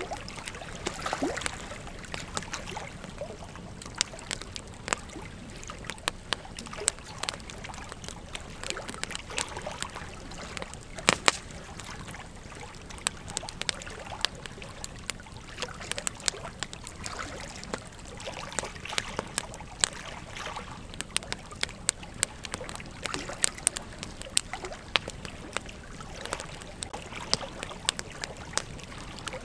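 Wood campfire crackling: irregular sharp pops and snaps, a few louder than the rest, over a steady hiss of burning.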